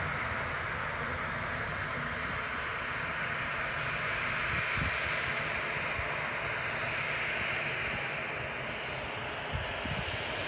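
Jet airliner's engines heard as a steady rushing roar, easing off slightly near the end.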